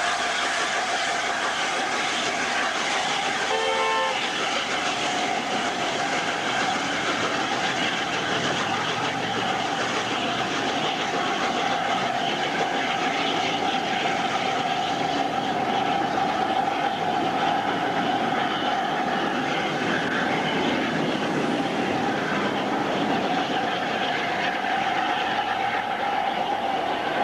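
Steam-hauled train running steadily, with continuous rail and running noise and a steady hum, plus a brief pulsing tone about four seconds in.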